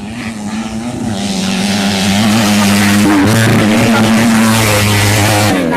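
Grasstrack racing motorcycles' engines running loud, building from about a second in and dropping away just before the end.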